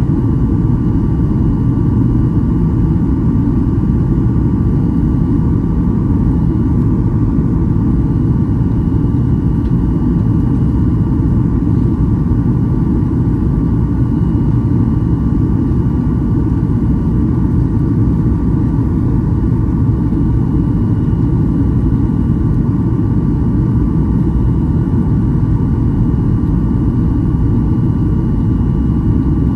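Cabin noise of a Boeing 737-800 in flight: a steady low rumble of its CFM56-7B engines and rushing air, with a faint steady whine above it.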